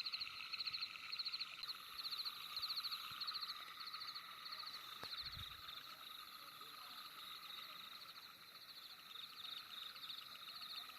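Night chorus of calling frogs: short pulsed trills repeating a little under twice a second, growing fainter and less distinct about halfway through.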